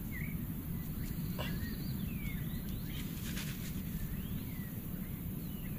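Outdoor rural ambience: a steady low rumble under birds calling with short, thin chirps that glide in pitch, about one every second.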